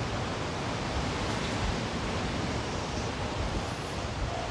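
Strong wind buffeting the microphone: a steady rushing hiss with uneven low thumps. A steady tone begins near the end.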